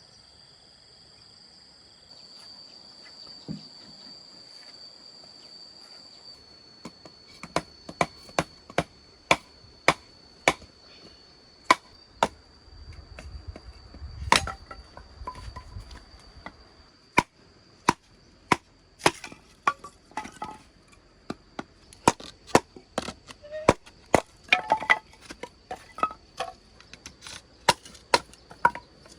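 Repeated chopping strokes: sharp, irregular knocks about one to two a second that begin several seconds in. They sit over a steady, high-pitched chirring of insects.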